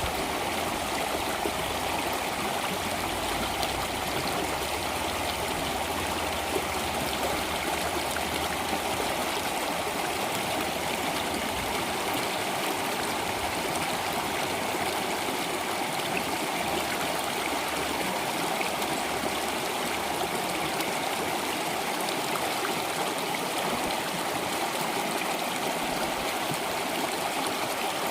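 Flowing water with a steady, even rush that does not change.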